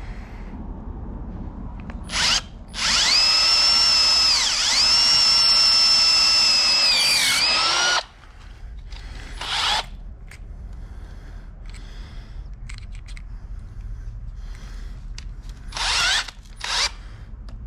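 Power drill driving a tap into a drilled mounting hole in a steel door frame: a short whir about two seconds in, then a steady run of about five seconds whose pitch dips twice as the tap bites, and later shorter whirs near the middle and near the end.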